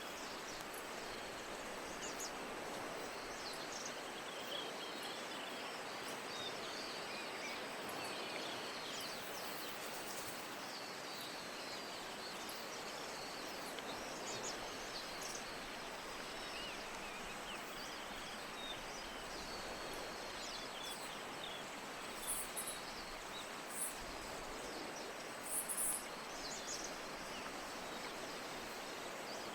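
Steady hiss of falling rain, with faint high chirps scattered through it and a few short, sharp high ticks near the end.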